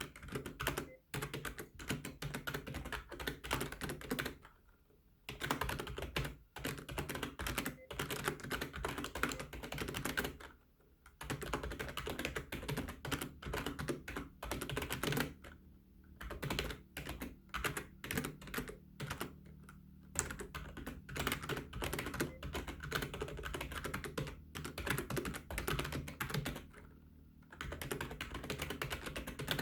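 Fast typing on a computer keyboard: rapid runs of key clicks, broken by brief pauses of about a second at several points.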